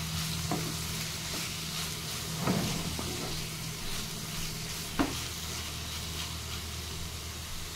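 Chopped onion, tomato and green chilli sizzling in hot coconut oil in a pan as a wooden spatula stirs them, with a couple of sharper knocks of the spatula on the pan, the loudest about five seconds in.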